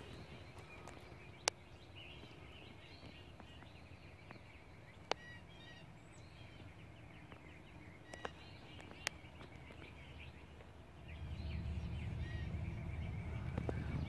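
Birds chirping and singing, with a few sharp clicks along the way; a low rumble comes in about three-quarters of the way through.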